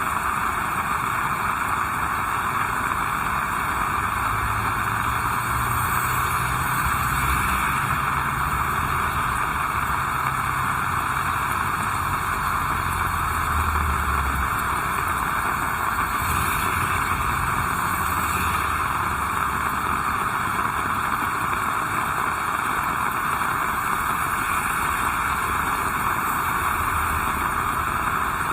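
Heavy rain falling steadily. A vehicle engine rumbles low underneath through the first half.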